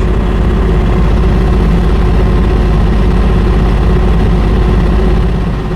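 JoyT5 JT5350 3.5-ton mini excavator's diesel engine running steadily.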